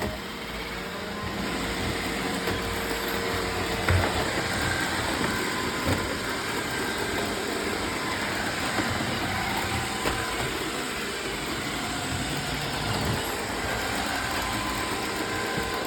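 Roomba robot vacuum running: a steady motor and brush hum with a faint whine, and a couple of light knocks.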